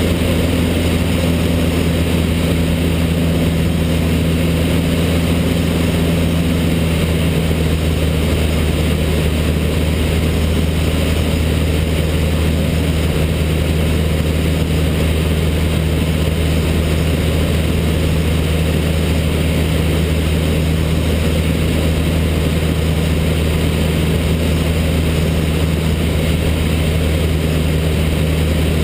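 Cessna 152's four-cylinder Lycoming O-235 engine and propeller droning steadily in flight. A slightly higher tone in the drone fades out about seven seconds in.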